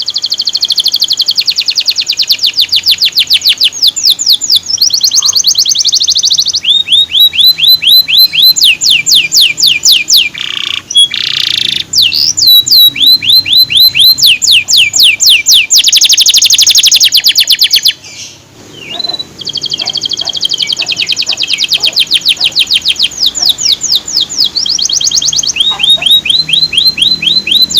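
Male canary singing: long phrases of fast trills, each a rapid run of repeated sweeping notes, with a brief pause about two-thirds of the way through.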